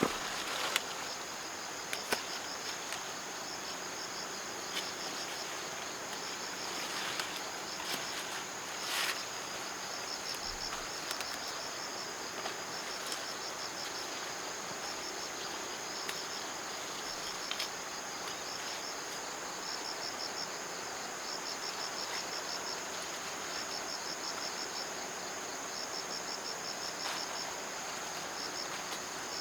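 Insects calling: a steady high-pitched buzz with short bursts of rapid cricket-like chirping trills repeating every few seconds. A few light taps or knocks sound in the first ten seconds.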